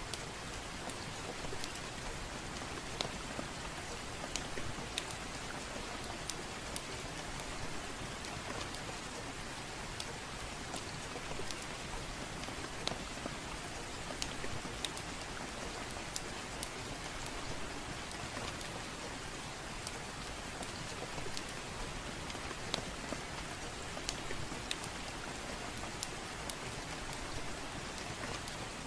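Steady soft rain hiss with irregular sharp crackles and pops from a wood fire in a fireplace, a few every second or so.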